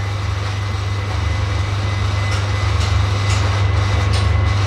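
A workshop machine running steadily with a strong low hum.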